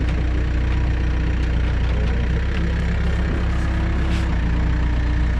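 Heavy machine's diesel engine idling steadily.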